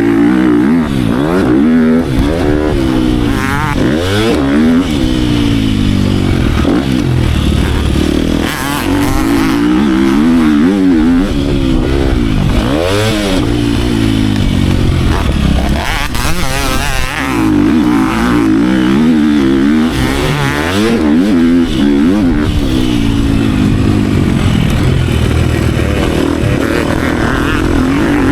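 Dirt bike engine revving hard and dropping back again and again, its pitch climbing and falling every few seconds as the rider works the throttle and gears around a motocross track.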